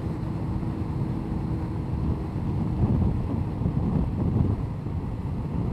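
Honda CBR1100XX Blackbird's inline-four engine running at an easy, low-speed cruise, with wind rushing over the microphone.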